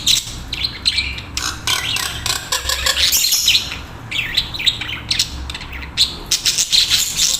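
Budgerigars chattering: a continuous stream of fast warbling chirps and squawks.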